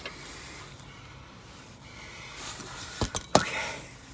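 Three sharp knocks close together about three seconds in, over a low steady hiss.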